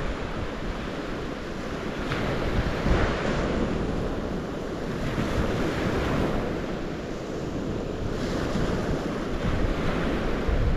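Water waves washing in with a continuous rush that swells every two to three seconds, with wind rumbling on the microphone.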